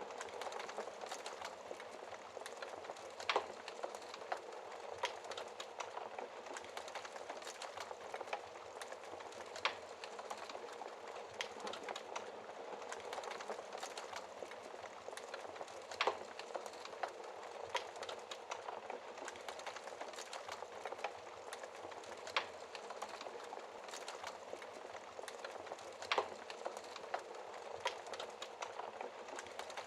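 Wood fire in a fireplace crackling, a dense patter of small crackles with a handful of louder sharp pops at irregular intervals.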